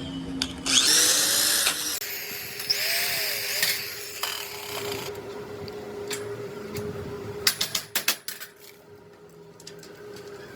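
Metal workshop sounds: a hand power tool runs in two short bursts, over a steady machine hum, followed by a quick run of sharp knocks.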